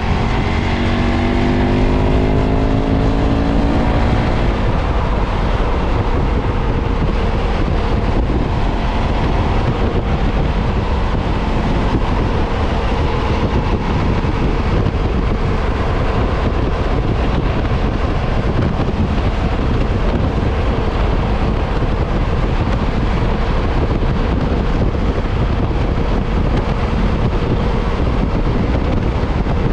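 KTM 990's V-twin engine on its stock exhaust, accelerating with a rising pitch for the first few seconds, then running steadily at speed under heavy wind noise.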